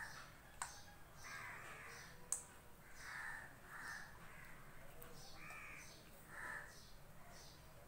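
A bird calling over and over, short calls about once a second, with a few sharp metallic clicks of a spoon against a stainless-steel bowl, the loudest about two seconds in.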